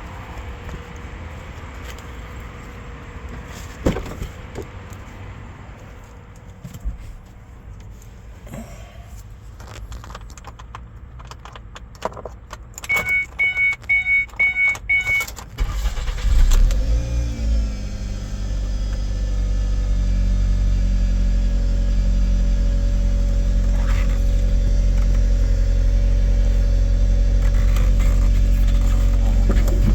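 Key handling and a quick run of dashboard chime beeps, then a 2005 Ford Escape's engine cranks briefly and catches on a cold start, flares up and settles into a steady fast idle.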